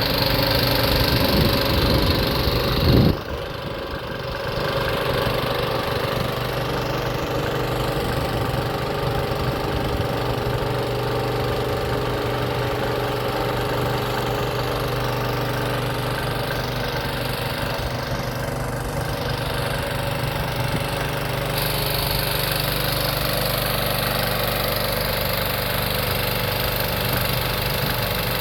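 Tractor engine running steadily at low revs. About three seconds in there is a brief loud knock, after which the engine sound carries on a little quieter.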